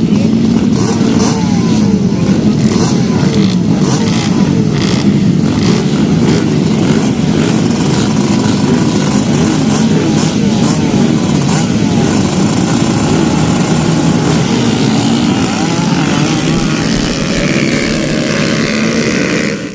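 Several motocross dirt bikes racing, their engines revving up and down over one another in a continuous, loud din.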